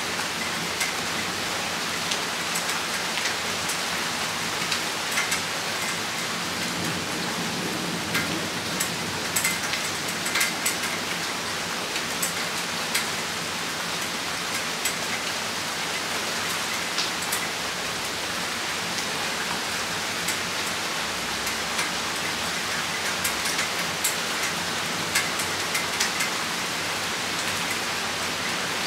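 Rain shower falling steadily, with many sharp drops ticking on a hard surface close by.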